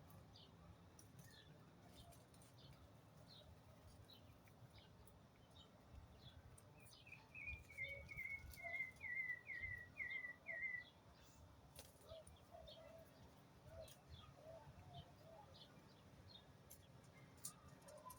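Faint birdsong: a quick run of about ten repeated chirps, falling slightly in pitch, a little before the middle, with scattered faint chirps and a few softer, lower calls around it.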